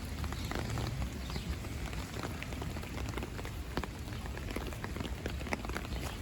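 Rain falling on an umbrella overhead: many separate drop taps over a steady hiss of rain.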